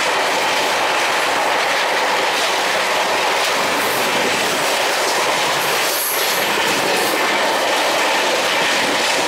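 Passenger train running at speed, heard at an open coach door: a loud, steady rush of wind and wheel-on-rail noise.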